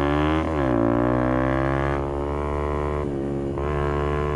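Motorcycle engine with an aftermarket exhaust accelerating through the gears: the revs climb, drop sharply at a gear change about half a second in, then climb again, with another short dip about three seconds in.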